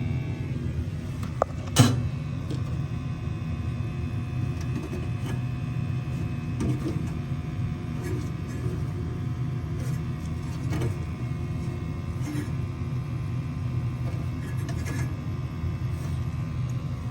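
American Standard gas furnace running after a jumped call for heat: a steady low rumble with a faint hum, and one sharp click about two seconds in.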